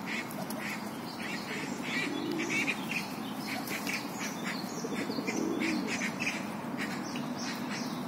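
Small birds chirping: a steady stream of short high calls, several a second, over a low background murmur.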